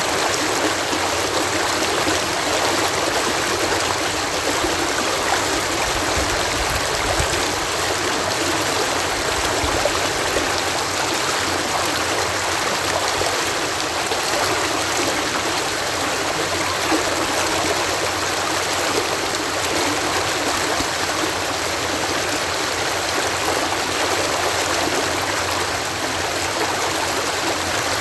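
Water cascading over a canal lock gate, a steady, even rush of falling water.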